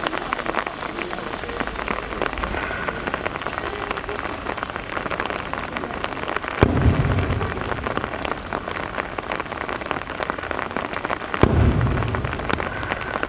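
Steady rain falling, with two firework shells bursting, about halfway through and again near the end, each a sharp boom whose low rumble dies away over about a second.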